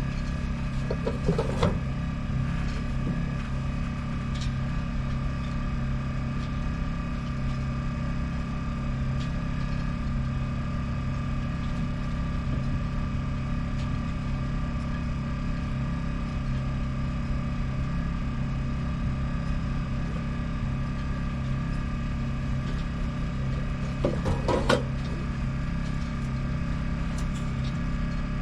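Yanmar FX24EZ boat engine idling steadily after its oil and filter change, with a couple of brief clattering knocks, about a second and a half in and near the end.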